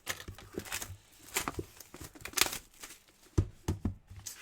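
Plastic wrapping being torn and crinkled in a few short rips, followed by a few light knocks as the box is handled.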